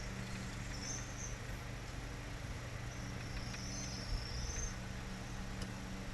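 Insect, likely a cricket, trilling twice, the second trill longer, over a steady low hum.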